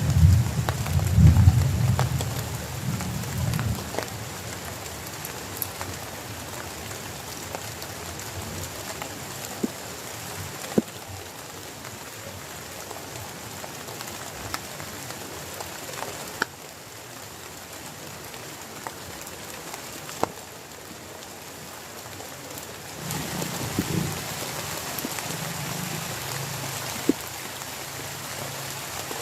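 Heavy rain falling steadily, with scattered sharp hits of single drops. Low thunder rumbles through the first few seconds and returns more faintly about twenty-four seconds in.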